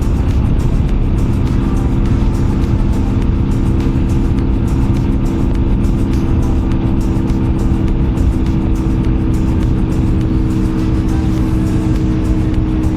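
Motorcycle engine running at a steady cruise, its even drone heard over heavy low wind rumble on the rider's microphone.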